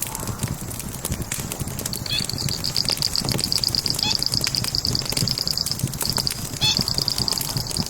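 Burning logs crackling and popping in a wood fire, with irregular sharp snaps over a low rumble. About two seconds in, a high, rapidly pulsing trill joins in and goes on with a few short breaks.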